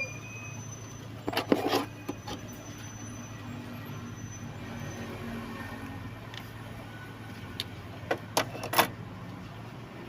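Short clusters of sharp clicks and knocks from parts being handled in the engine bay, once about a second and a half in and again near the end, over a steady low hum.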